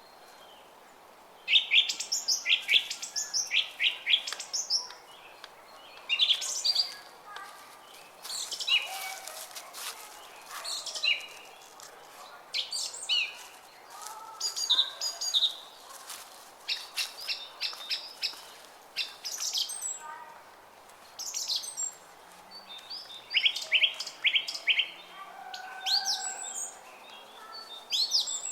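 Several songbirds singing and chirping in a dawn-chorus mix, with quick repeated chirps and short trills one after another, over the faint steady murmur of a brook.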